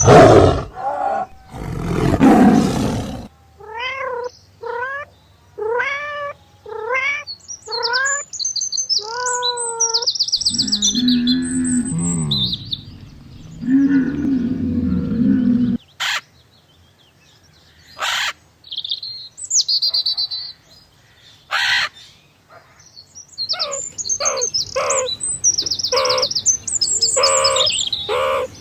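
A run of different animal calls, one kind after another. There is a loud harsh call in the first three seconds, then a string of about ten short rising calls. Low drawn-out calls follow, then scattered sharp chirps and clicks, and a quick run of chirps near the end.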